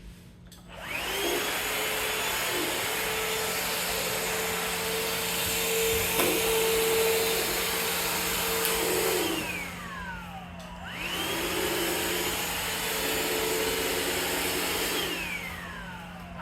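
Vacuum cleaner switched on, running steadily for several seconds, then switched off with its whine falling as the motor spins down; it is switched on and off again in the same way.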